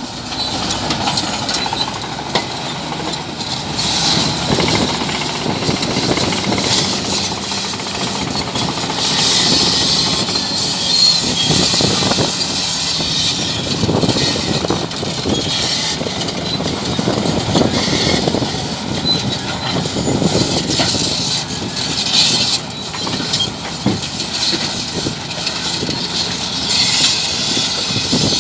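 Bulldozer working: its diesel engine running under load, with steady metallic clanking and rattling throughout.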